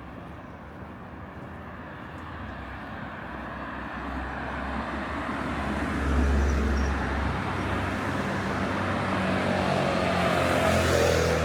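Street traffic: a vehicle engine grows louder and passes close about six seconds in, and a second swell of engine and road noise comes near the end.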